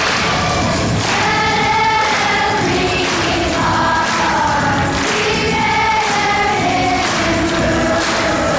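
Children's choir singing a song with musical accompaniment, holding long notes over a steady beat.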